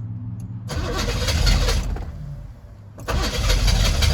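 A diesel truck engine being cranked by its starter in two tries, the second starting about three seconds in, turning over without catching.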